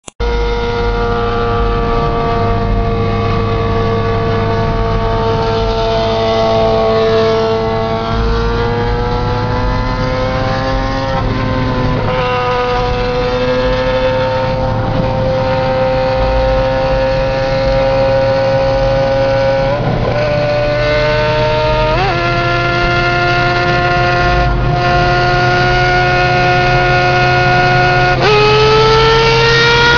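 Vehicle engine heard through its exhaust, running at a steady pitch for long stretches. Its tone jumps up suddenly a few times, about a third of the way in, twice around two-thirds of the way, and again near the end.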